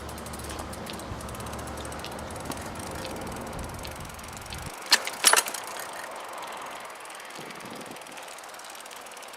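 Steady noise of a bicycle being ridden, with a low rumble that cuts off suddenly about halfway through. A quick cluster of three or four sharp knocks or rattles follows just after.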